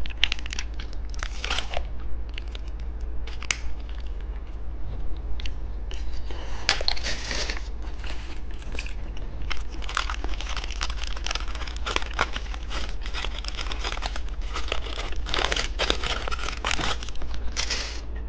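Plastic candy wrappers crinkling and tearing as they are handled and unwrapped, in irregular crackles and rustles, over a steady low hum.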